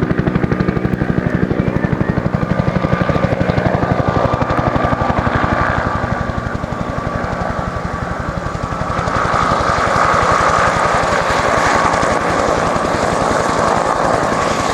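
UH-1 Huey helicopter running: its two-bladed main rotor beats in a fast, even rhythm over the whine of its turbine engine. From about nine seconds in, the higher-pitched whine and rush grow louder while the beat softens.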